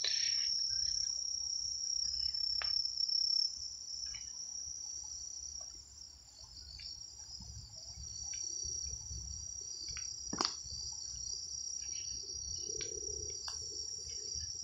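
A steady high-pitched chorus of crickets trilling without a break. Under it there is a low rumble, and one sharp click or snap comes about ten seconds in.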